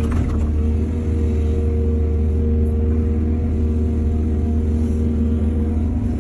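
Diesel engine of heavy earth-moving machinery running steadily with a deep rumble, with a brief rattle right at the start.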